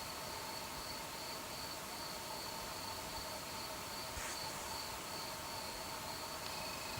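Crickets chirping on a warm summer night, an even, rhythmic high-pitched pulsing of about two to three chirps a second. A second, lower insect trill joins near the end.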